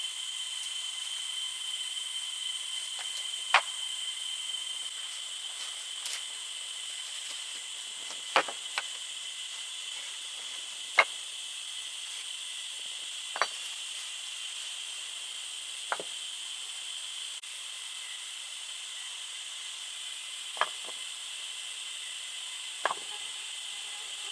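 Forest insects droning steadily at a high pitch, with about eight sharp single knocks spaced irregularly a few seconds apart.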